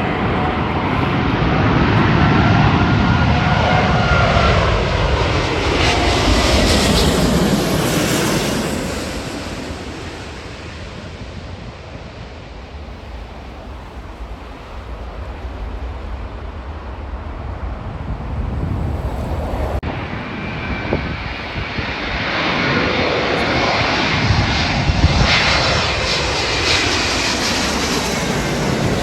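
Airliner engines passing close, with a falling pitch as the aircraft goes by and fades about ten seconds in. A second aircraft grows loud again in the last several seconds.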